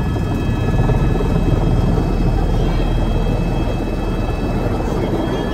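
Helicopter running: loud, steady rotor and engine noise with a thin, steady high whine over it.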